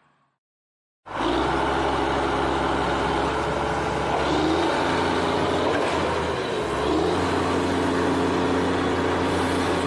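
A vehicle engine running steadily, starting abruptly about a second in after a brief silence.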